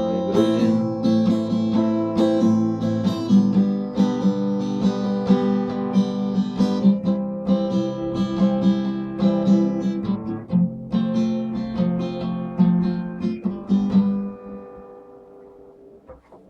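Acoustic guitar strumming chords that ring on, closing out the song. The strumming stops about fourteen seconds in, and the last chord fades away.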